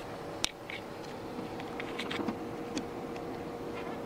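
Clicks and knocks of someone handling the John Deere 8285R tractor's cab, with one sharp click about half a second in and several lighter ones after, over a steady mechanical hum.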